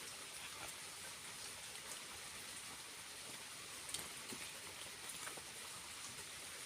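Faint, steady splashing and trickling of water falling at a waterfall, with scattered small drips and one slightly louder drop about four seconds in.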